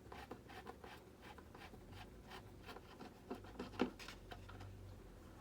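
Light scratching, rubbing and irregular small clicks from hands working at the parts of a foam RC jet to free a glued piece, with a few sharper ticks about three and a half seconds in.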